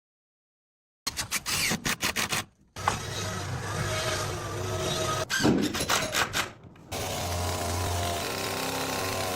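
Carpentry work: a quick run of sharp knocks starting about a second in, then a small power tool's motor running steadily.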